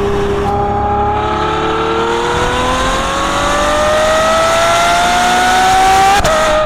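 Ferrari F12 Berlinetta's 6.3-litre naturally aspirated V12, heard from the rear bumper through its exhaust, pulling hard in one gear with a smoothly rising note for about five seconds. Near the end a quick upshift gives a short crack and a sudden drop in pitch.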